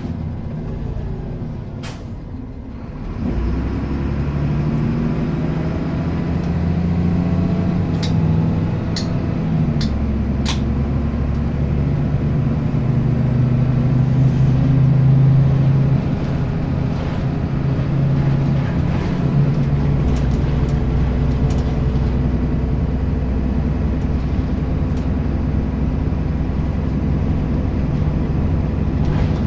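Bus diesel engine heard from on board, pulling away about three seconds in and then running under load, its note stepping up and down several times as it works through the gears. A few sharp clicks or rattles come near the middle.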